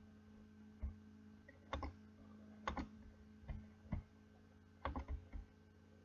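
Irregular short clicks and knocks, coming singly and in quick pairs, over a steady low hum.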